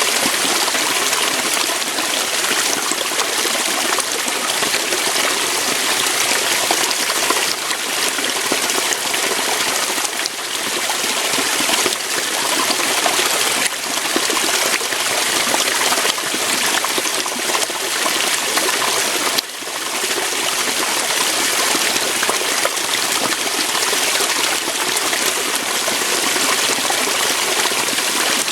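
Waterfall: water rushing and splashing over rocks, a steady full hiss with small fluctuations.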